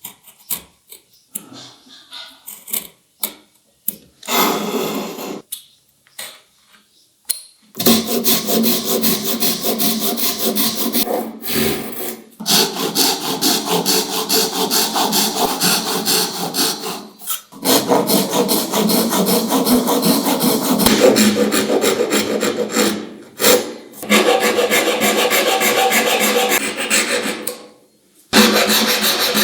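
Scattered light taps and clicks, then wood being worked by hand with rapid, steady strokes, in long runs broken by short pauses.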